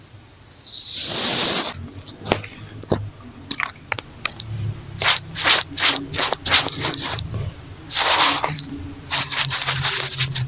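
Close-miked ASMR brushing and scratching on the microphone: a long brushing swish early on, then a hair tie rubbed and scratched across it in quick runs of short, scratchy strokes, with a low hum underneath in the second half.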